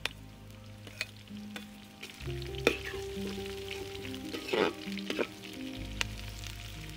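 Green chillies, ginger, garlic and shallots sizzling in hot oil in an uruli, with a handful of sharp clicks and scrapes from a spoon stirring them. Soft background music with long held low notes runs underneath.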